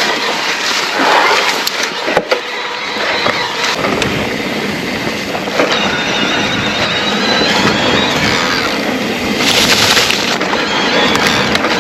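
Riding noise from an e-mountain bike on a rough moorland track: tyres rolling and rattling over the ground with wind buffeting the helmet camera's microphone, the rumble thickening about four seconds in. A faint steady high whine runs along under it from about halfway through.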